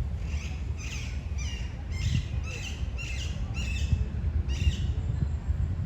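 A bird calling a series of about eight short, falling notes roughly half a second apart, over a steady low rumble of wind on the microphone.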